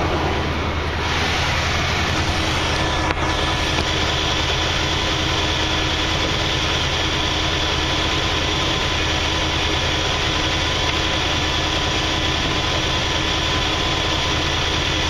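AMC 304 two-barrel V8 idling steadily, still on the choke after a cold start, with one brief click about three seconds in.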